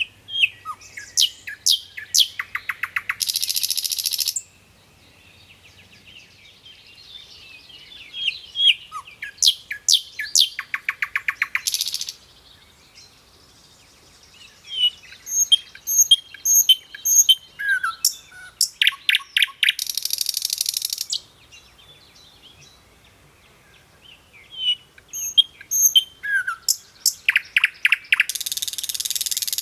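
Flycatcher known in Indonesia as sikatan londo singing: four bouts of quick, varied chirps and whistles, each ending in a fast rattling trill, with pauses of two to three seconds between bouts.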